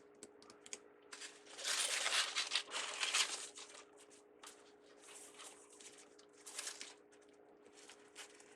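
Craft ribbon rustling and crinkling as it is handled, in irregular bursts, loudest from about one to three and a half seconds in, with a faint steady hum underneath.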